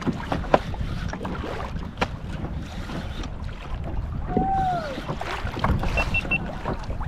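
Wind buffeting the microphone over water around a fishing kayak, with scattered short clicks. About four and a half seconds in there is a brief arched tone, and soon after it three short, evenly spaced high beeps.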